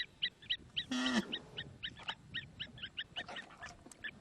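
Birds calling: a rapid, even series of short high chirps, about four a second, with one louder call that drops in pitch about a second in.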